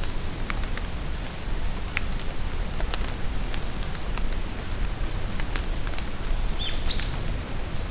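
Steady rain falling in a forest, with drops pattering and ticking sharply on nearby surfaces. A bird gives a short sweeping high call about seven seconds in, and there are fainter chirps earlier.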